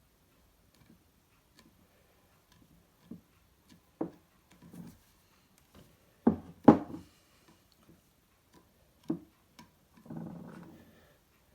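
Scattered light knocks and clicks of a ceramic bowl and small tools being handled on a work surface while filler is applied, with two sharper knocks a little past the middle and a brief scraping about a second before the end.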